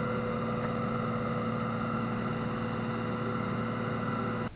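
Tractor engine running at steady revs, cutting off suddenly near the end.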